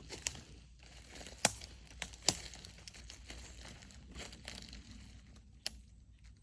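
Crinkling, crackling rustle with sharp snaps: three loud ones at about a second and a half, two and a half seconds, and near the end.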